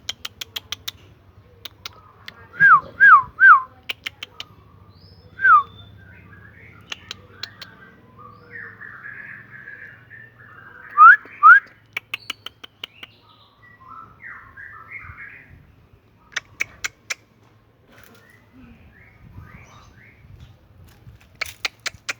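White-rumped shama singing: loud, falling whistled notes, a quick run of three about three seconds in and a pair about eleven seconds in, between softer chattering phrases, with trains of sharp clicks throughout.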